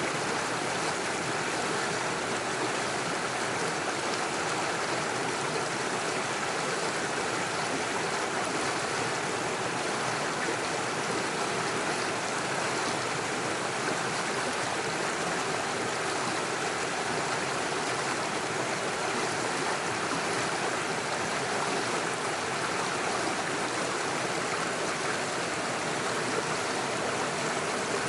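Small stream running over stones and little waterfalls, a steady rush of water with no breaks.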